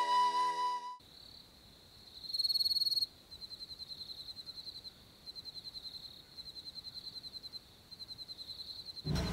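Crickets chirping in fast, high trills that come in bursts of about a second with short gaps, one nearer and louder than the rest early on. A held flute note fades out about a second in, and a sudden louder noise starts right at the end.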